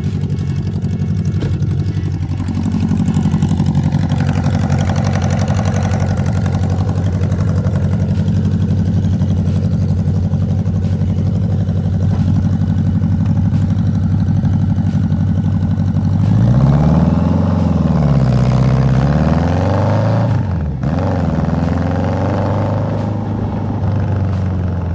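BMW K100's inline four-cylinder engine running steadily, then revved up and down a few times about two-thirds of the way through before settling back.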